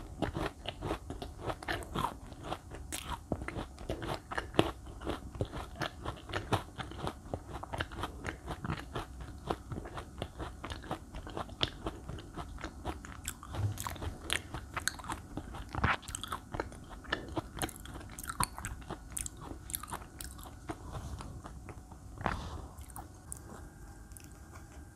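Close-miked crunching and chewing of a crunchy chocolate snack, a steady run of irregular sharp crunches that thins out and quietens about 22 seconds in.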